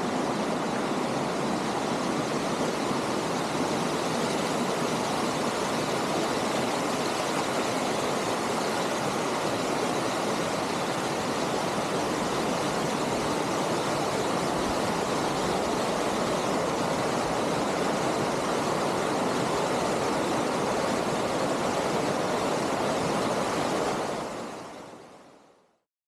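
Steady rush of a mountain stream pouring down a natural rock waterslide, a continuous even roar of water that fades out near the end.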